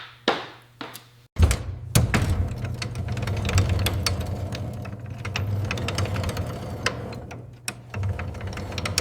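A couple of sharp knocks, then a machine starts suddenly about a second and a half in and runs with a steady low hum and rapid rattling clicks.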